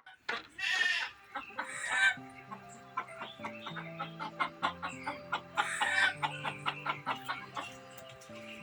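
Chickens calling three times in short bursts over background music.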